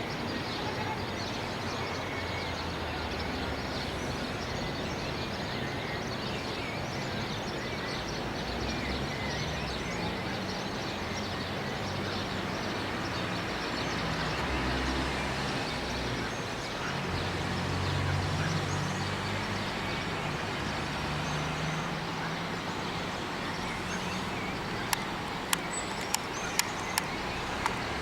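Morning chorus of many birds chirping and singing at once, over a steady low rumble of distant traffic. Near the end come several sharp clicks, about two a second.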